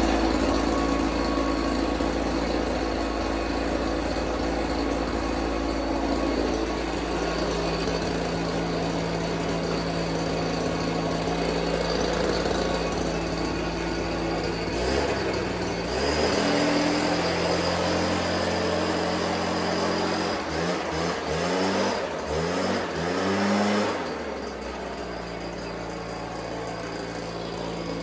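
Stihl BR340 backpack leaf blower engine running steadily, then revved up and down in several quick blips, then dropping back to a quieter steady idle near the end. The repaired blower is now running.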